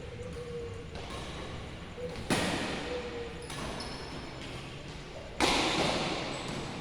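Badminton racket hitting a shuttlecock in a large echoing hall: two sharp hits about three seconds apart, each ringing on briefly, with fainter knocks and short squeaks between.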